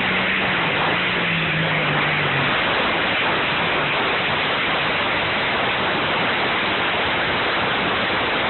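A pulling truck or tractor's engine running at full throttle, heard as a loud, steady, noisy roar. The engine note falls in pitch over the first couple of seconds.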